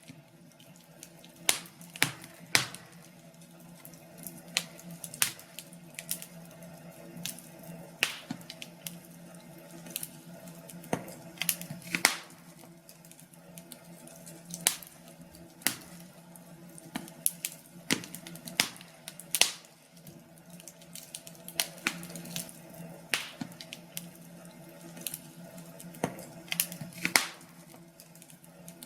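Wood fire crackling, with irregular sharp pops and snaps over a faint steady low hum.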